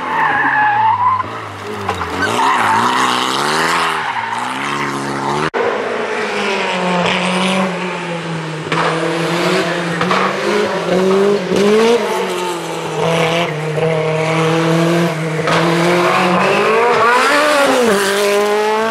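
Group B rally car engine at hard throttle, its pitch climbing and dropping again and again as it revs up through the gears and lifts off. The sound breaks off abruptly about five seconds in and carries on.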